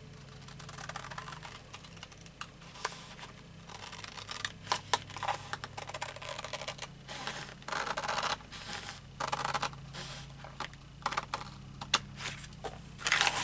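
Scissors snipping through paper and paper being handled: an irregular run of sharp clicks and short rustles, busier in the second half.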